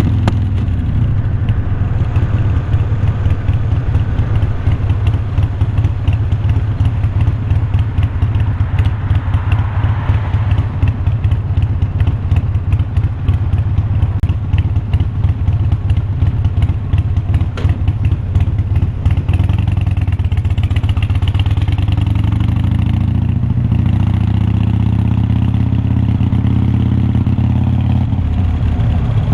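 Exhaust note of a Harley-Davidson Iron 1200's air-cooled V-twin through unbranded glass-pack-style slip-on mufflers while riding. It is a deep, uneven pulsing at first and settles into a smoother, steadier drone about two-thirds of the way through.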